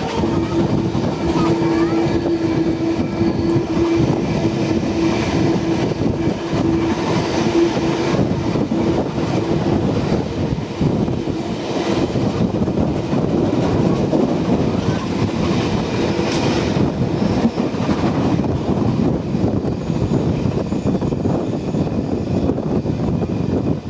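Heritage train on the move: a steady rumble of wheels running on the rails. A steady tone sits over it for the first two-thirds and then fades out.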